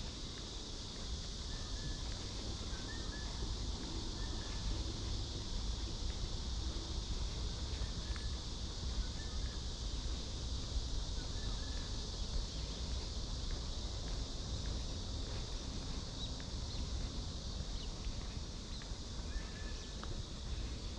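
A continuous chorus of cicadas, an unbroken high buzz, with a few short bird chirps scattered through it and a low rumble underneath.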